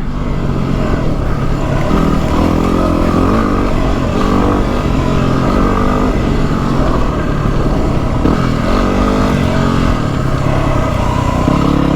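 Yamaha WR250R's single-cylinder four-stroke engine running under way, its revs rising and falling as the throttle is worked.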